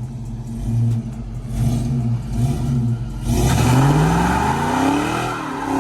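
Car engine idling, then revved hard about three seconds in, its pitch climbing steeply and easing back a little near the end.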